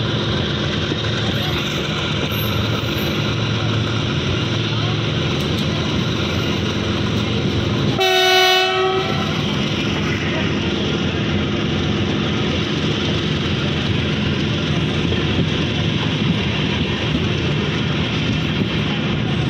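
Steady running noise of a moving train heard from on board, wheels on rails with some clickety-clack. A train horn sounds one steady blast of about a second, some eight seconds in.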